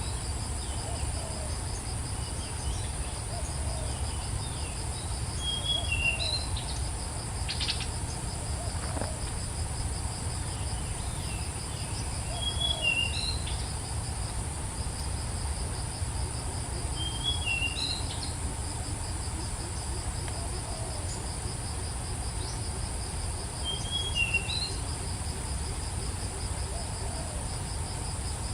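Insects trilling steadily in a high drone. A songbird repeats a short phrase of a few quick chirps about every six seconds, over a low rumble.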